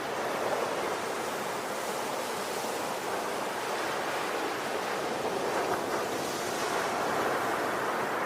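Ocean waves breaking and washing on the shore in a steady, continuous surf with gentle swells in level.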